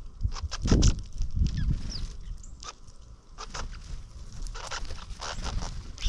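Birds calling with many short, sharp chirps, some rising or falling quickly. A low rumble comes in briefly about a second in.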